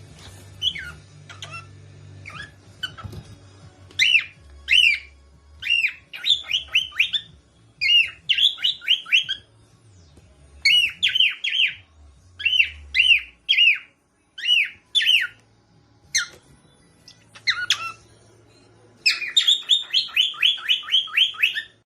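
A parrot calling in sharp, loud chirps, each one dropping in pitch. They come singly or in quick runs of two to five, and near the end there is a long rapid series of about a dozen.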